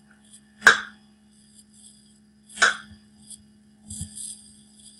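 A man's voice pronouncing the consonant /k/ on its own twice, as short puffs of air about two seconds apart, over a faint steady hum.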